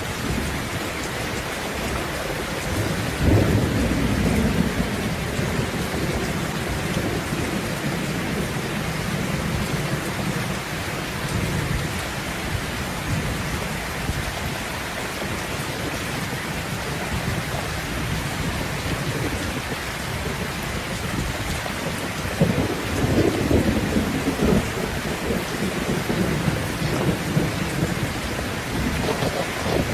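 Steady rain falling, with rolls of thunder rumbling: one about three seconds in, another past the twenty-second mark, and a third starting at the very end.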